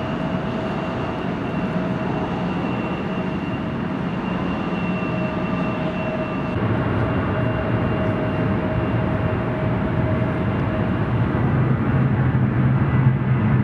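Airliner engines running, with a steady whine that fades out about halfway through while a lower rumble grows louder toward the end.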